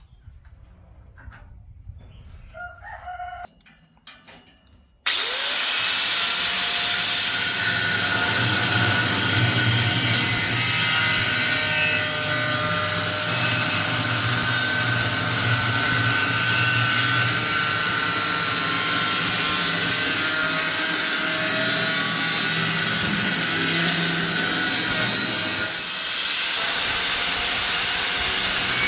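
A few light handling clicks, then a power tool switches on about five seconds in and runs steadily and loudly, dipping briefly near the end.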